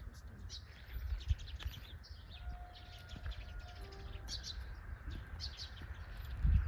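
Small birds chirping in quick, scattered calls, over a steady low rumble.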